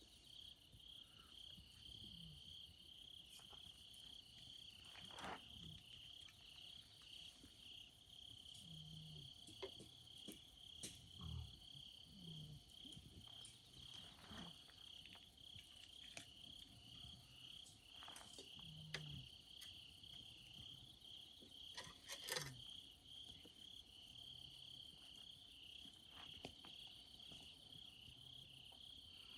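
Crickets chirping in a steady, fast-pulsing trill, with occasional sharp crackles and pops from the campfire; the loudest pop comes about 22 seconds in.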